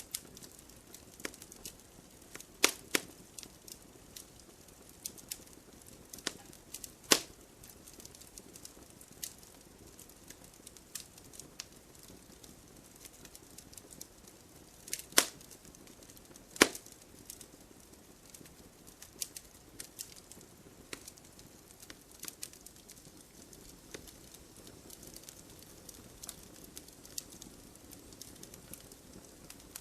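Burning firewood crackling: a low steady hiss of flame under scattered sharp pops and snaps, a few of them loud, about 3, 7, 15 and 16 seconds in.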